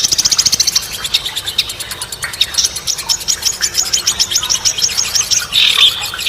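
Songbirds from a masteran mix of tledekan gunung, lovebird and cendet singing together: fast high-pitched trills of evenly repeated notes, scattered chirps, and a louder, harsher call near the end.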